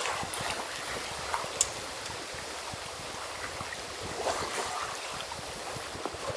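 Small lake waves lapping at the shore, a steady wash with a couple of sharp clicks about a second and a half in.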